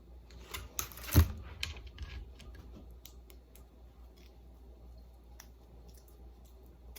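Kitchen handling noises while cream cheese is scooped: a quick cluster of clicks and scrapes with one loud knock about a second in, then scattered small clicks.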